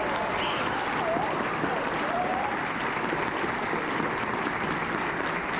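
Audience applauding steadily at the end of a choir piece, with a few voice-like calls in the first couple of seconds.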